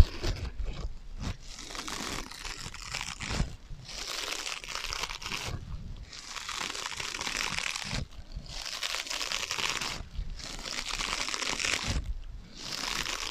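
Scratching on sponges in a run of rasping strokes, each lasting a second or two with brief pauses between, with an echo effect laid over the sound.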